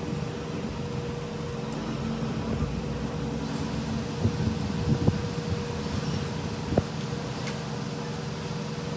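A steady mechanical hum with a constant tone, with a few light knocks about halfway through.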